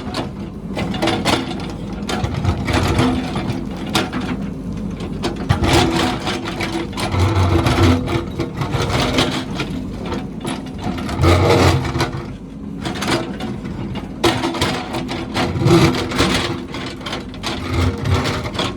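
A heavy construction machine's engine running steadily under load, with frequent short knocks and clanks and a low thump every few seconds.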